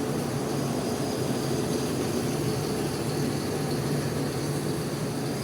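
Diesel bus engine running with a steady low drone, with no sudden sounds.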